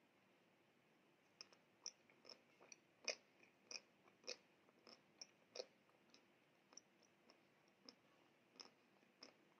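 Quiet, close-miked chewing with the mouth closed: irregular small clicks and smacks, about two a second, starting about a second and a half in.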